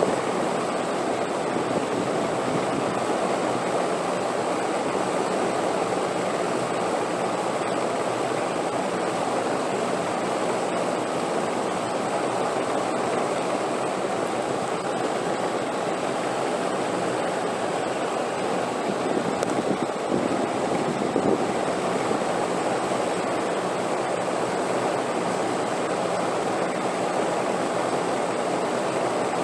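Steady wind, a continuous rushing noise without gusts or pauses, with a faint high steady tone above it.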